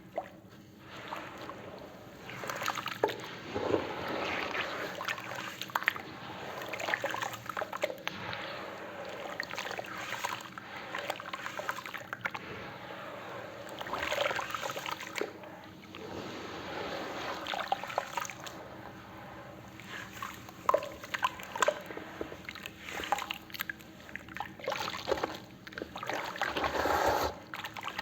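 Wet cement and concrete paste being mixed and poured: a continuous sloshing, splattering texture with small wet clicks, swelling louder several times.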